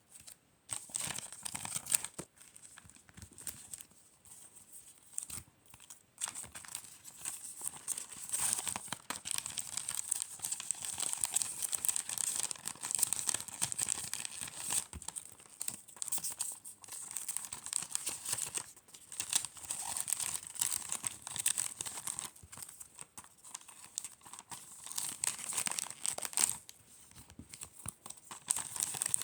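Packaging being crinkled and torn by hand: close-up rustling and crackling in uneven bouts, with short pauses.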